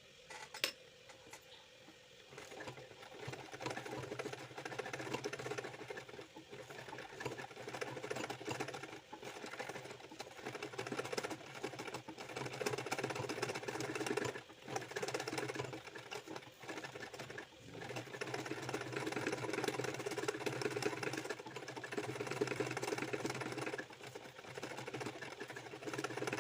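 Ordinary domestic sewing machine stitching in runs of a few seconds, with brief pauses between runs. A single click comes about half a second in, before the machine starts about two seconds in.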